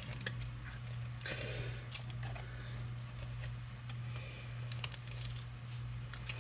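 Trading cards being handled: light scattered clicks and taps, with a short rustling scrape about a second and a half in, over a steady low hum.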